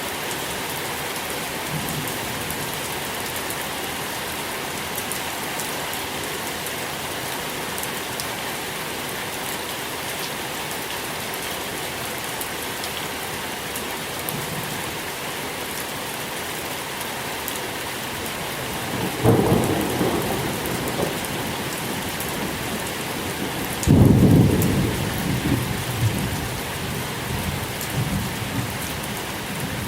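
Steady rain falling with a continuous hiss, and thunder rumbling twice: once about two-thirds of the way in, then a louder, longer roll a few seconds later that carries on to the end.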